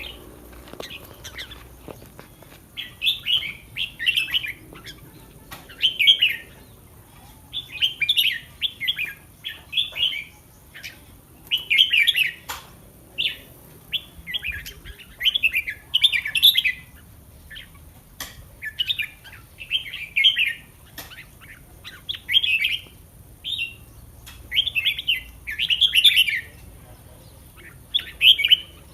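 Red-whiskered bulbul singing: short, bright warbled phrases repeated every second or two.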